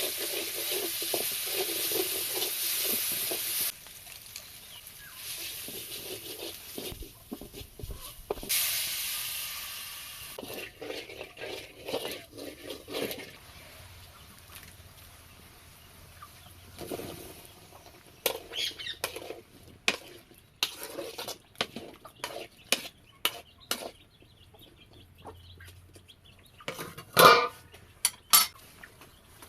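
Water running from a tap, shut off after a few seconds and run again briefly, then scattered clinks and knocks of pots and utensils, with one louder short sound near the end.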